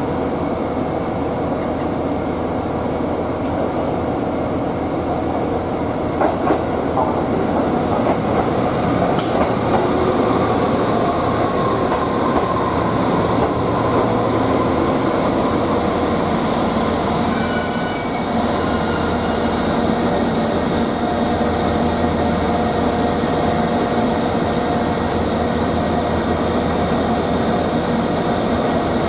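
JR East HB-E300 series hybrid train pulling in along the platform and stopping: steady running noise with a few wheel clicks over the rail joints, and brief high squeals as it slows.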